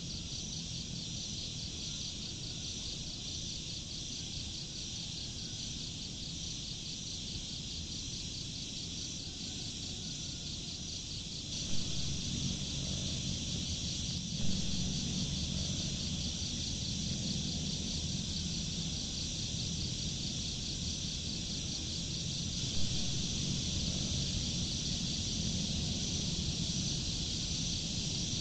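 A steady outdoor chorus of trilling insects, a fast, even, high-pitched pulsing. About twelve seconds in, a low rumble underneath grows louder, and there are a few brief knocks.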